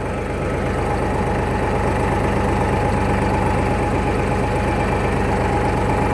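Farmtrac compact tractor's diesel engine running steadily as the tractor is driven, with a fine rapid pulsing and a steady whine above the engine note; it picks up slightly in the first two seconds.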